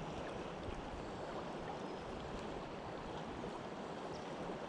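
Steady rush of flowing river current, an even hiss with no distinct events.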